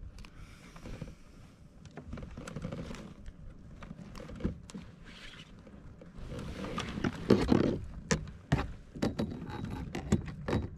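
Knocks, clicks and scraping of gear being handled on a fishing kayak, with a louder noisy stretch about two-thirds of the way through and a run of sharp knocks near the end.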